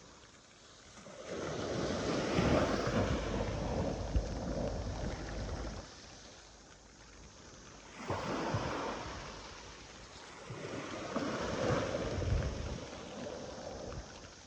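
Sea waves breaking and washing in, rising and falling in three surges, with a low rumble under each.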